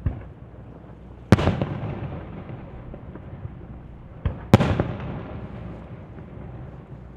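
Aerial firework shells bursting: a boom right at the start, a big one about a second in, and another big one just after a smaller crack a little past halfway. Each boom rolls on and fades for a second or more.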